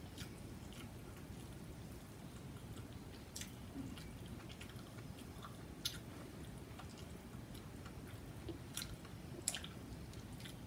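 A person chewing food close to the microphone, with faint wet mouth clicks and smacks and a few sharper clicks, over a low steady hum.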